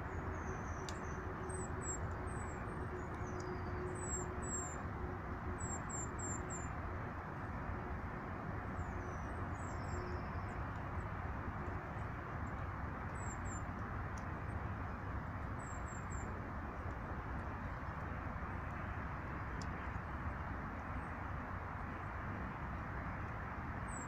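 Small songbirds giving high, thin calls in quick runs of two to four notes, several times during the first sixteen seconds, over a steady low rushing background noise.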